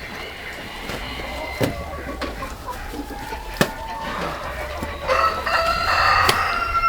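Chickens clucking, with a rooster crowing about five seconds in: one long call that is the loudest sound here. A few scattered knocks and clicks in between.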